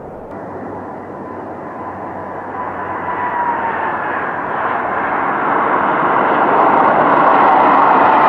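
Airplane engines growing steadily louder as the aircraft approaches, a rushing noise with a whine on top that dips slightly in pitch.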